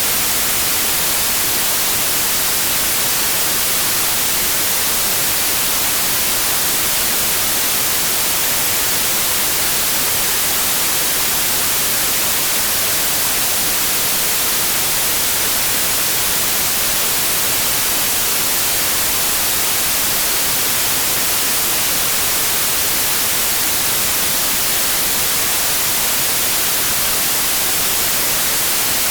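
Steady white noise: an even, unchanging hiss, played as a sleep aid for colicky babies.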